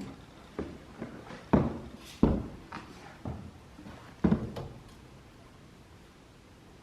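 Irregular knocks and thuds on wooden attic framing, about eight of them, as a vertical post is worked into plumb; they stop about four and a half seconds in.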